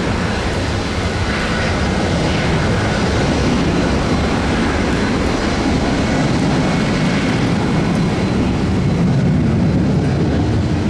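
Jet aircraft engines running with a steady roar and a faint whine.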